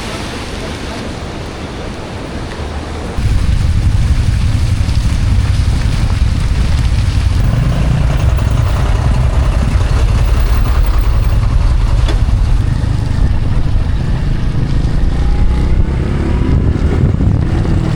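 Riding on a motorbike: a steady hiss, then about three seconds in a sudden jump to loud, steady wind rumble on the microphone over the bike's running engine, with a few faint rising engine notes near the end.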